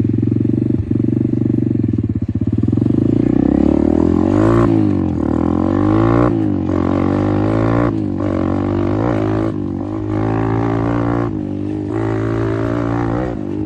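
Apollo RFZ 125 dirt bike's 125 cc four-stroke single-cylinder engine running steadily, then from about three seconds in revving up and easing off again and again, about every one and a half to two seconds, as the bike is ridden.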